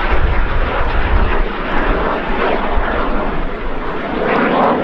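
Jet noise from a pair of BAC Strikemaster light attack jets, their single Rolls-Royce Viper turbojets sounding loud and steady overhead during a display pass, swelling again near the end. A heavy low rumble comes in the first second or so.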